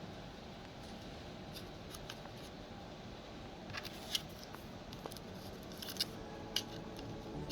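Low steady room noise with a few light, sharp clicks in the second half, the sound of small objects being handled.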